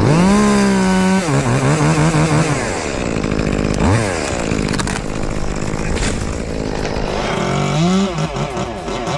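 Chainsaw revved to full throttle, then dropping to a lower pitch as it bogs down under load in a cut; about four seconds in it briefly falls off and picks up again, and near the end it revs up and down.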